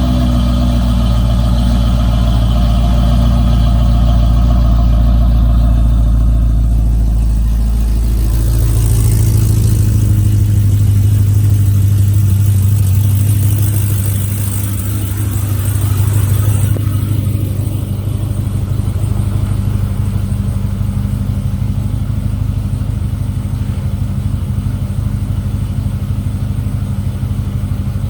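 A 2010 Corvette ZR1's supercharged 6.2-litre LS9 V8 idling steadily shortly after a cold start. About eight seconds in, the deep low note gives way to a higher hum, with a hiss on top that stops about sixteen seconds in.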